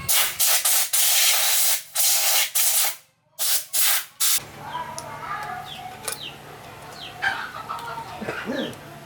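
About half a dozen loud bursts of hissing compressed-air spray, stopping and starting over the first four seconds. Then a low steady hum with chickens clucking and small birds chirping.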